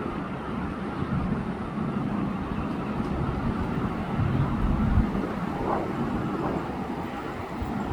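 Airbus A350-1000's Rolls-Royce Trent XWB engines rumbling as the jet airliner flies over, a steady low roar that grows a little louder about four to five seconds in.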